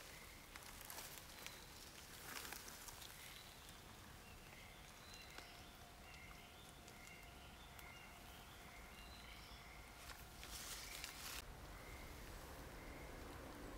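Faint woodland ambience with a bird calling a long series of short, repeated chirps. A few brief rustling noises come through, the longest about ten seconds in.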